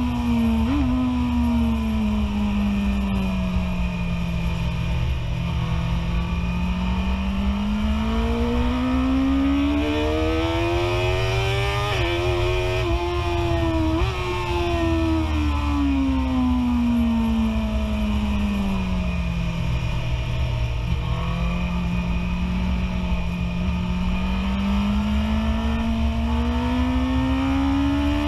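BMW S1000RR's inline-four engine heard from on board over a steady wind rumble. Its pitch twice drops to a low drone as the throttle comes off and twice climbs back to high revs as the bike accelerates.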